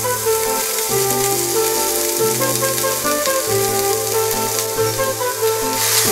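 Chopped snake gourd sizzling as it goes into hot oil with mustard-seed tempering in a steel pan, under instrumental background music with held notes and a moving bass line.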